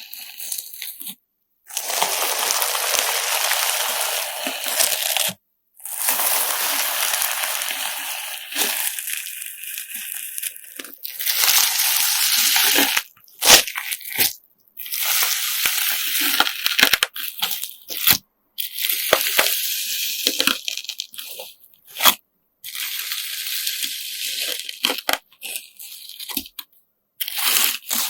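Sand-filled slime being squeezed and pressed by hand, with crunchy crackling and wet squishing. It comes in stretches of a few seconds, each cut off by an abrupt silent gap.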